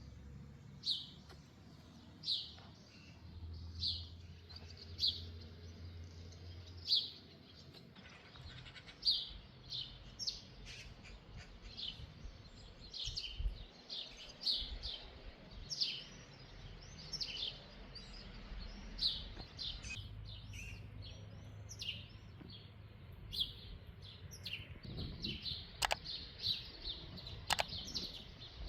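Small birds chirping: short high chirps, about one a second at first and coming thicker later in the stretch, over a faint low rumble. A couple of sharp clicks sound near the end.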